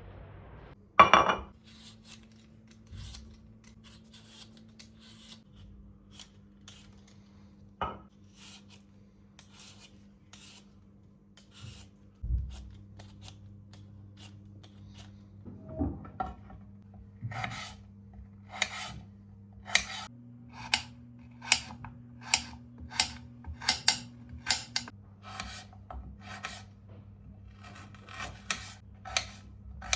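Kitchen prep work: a few scattered knocks and clicks, then from about halfway a steady run of short rasping strokes, one or two a second, over a faint low hum.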